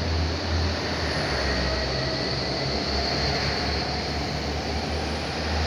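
A red regional multiple-unit train passing through the station at speed: a steady rolling rush of wheels on rails over a pulsing low rumble, with a faint whine.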